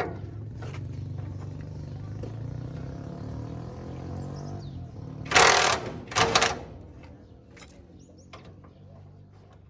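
A motor or engine running with a steady low hum, then two loud, short rushes of noise about five and six seconds in, after which it is quieter.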